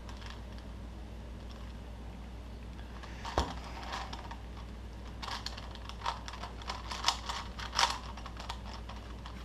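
Plastic Rubik's cube being turned by hand: irregular clicking and clacking of its layers in quick runs, starting about three seconds in.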